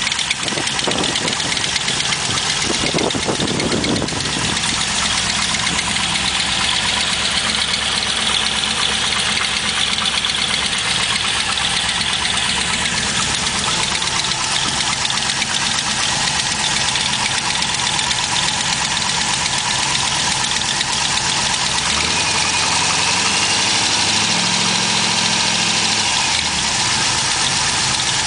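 GM LS1 5.7-litre V8 idling with a tick, which turned out to be an exhaust leak rather than a collapsed lifter. The engine speed rises for a few seconds near the end, then drops back to idle.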